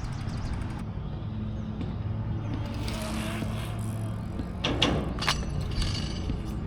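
Bicycle ride heard from a camera on the rider: a steady low rumble of tyres and wind on the microphone, with a few sharp clicks or knocks a little before the middle of the second half.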